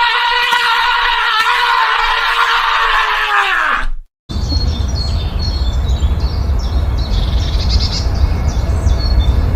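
A cartoon character's long, held high-pitched scream that dips in pitch and cuts off about four seconds in. After a brief silence, birds chirp over a low rumble.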